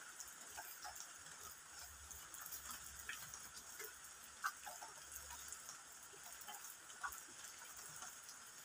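Faint chewing of raw bitter gourd: soft, irregular crunches and mouth clicks over a steady faint high hiss.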